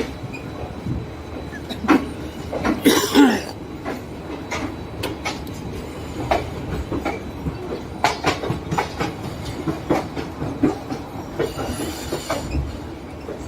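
Train running along the track: the wheels clack irregularly over rail joints over a steady rumble, with a louder grinding burst about three seconds in.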